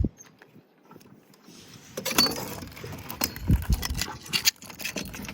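Crabbing gear being handled: repeated clinking, rattling and knocks, starting about two seconds in after a short quiet spell.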